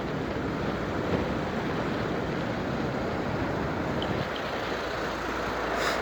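Steady rushing noise of a bicycle ride: wind over the microphone mixed with tyre and road noise. There is a short click near the end.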